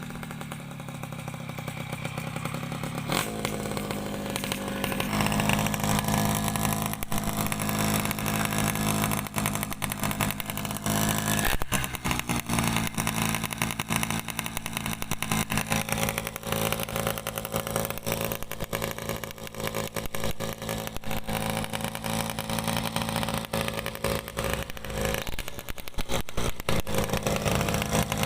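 Yamaha F1ZR's bored-up 116 cc two-stroke engine running on the bike under tuning, revved up in steps over the first few seconds, dipping briefly about twelve seconds in, then held at a steady raised speed.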